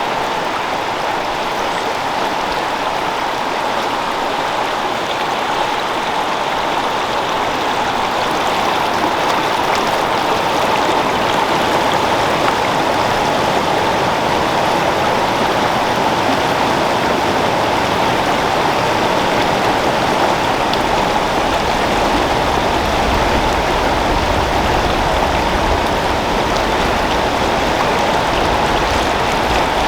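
Creek water flowing steadily, a continuous even rushing. A low rumble joins in about two-thirds of the way through.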